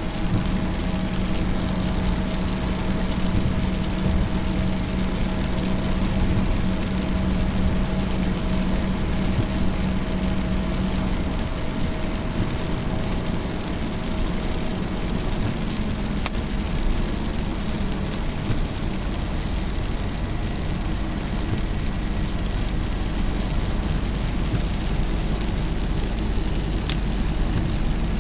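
A vehicle's engine running steadily under an even wash of road or rain noise, with a low hum that fades out about eleven seconds in.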